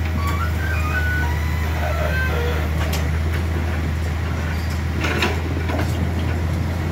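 Truck engine running with a steady, heavy low drone, with a couple of faint knocks.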